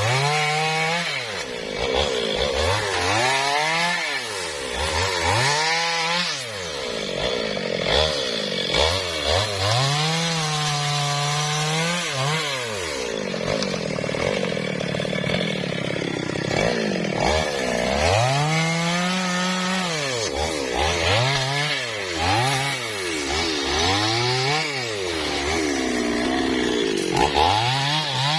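Two-stroke chainsaw cutting into a teak trunk, its engine revving up and dropping back again and again, with a couple of longer held runs at full speed in the cut.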